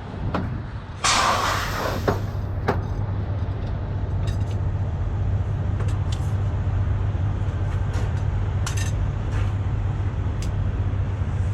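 Heavy-duty tow truck's diesel engine idling steadily, with a loud burst of compressed air hissing from the air lines about a second in, lasting about a second. Scattered metallic clicks and clanks follow.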